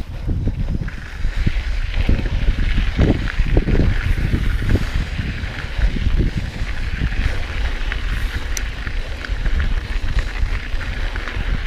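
Mountain bike riding along dirt singletrack: wind buffeting the bike-mounted or helmet microphone, with tyres rolling over the dirt and the bike knocking and rattling over bumps.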